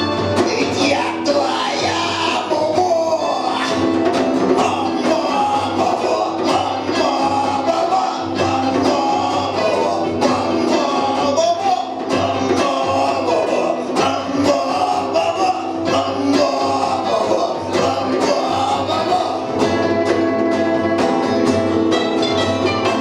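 Punk rock band playing live: a singer over full-band guitars and drums, loud and steady throughout.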